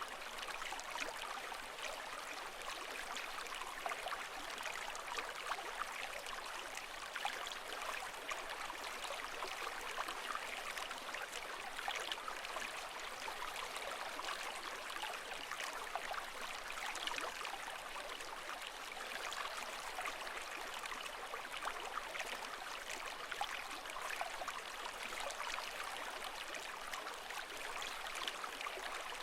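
Water flowing and trickling in a steady, even wash, full of small fine splashes, with no swells or breaking waves.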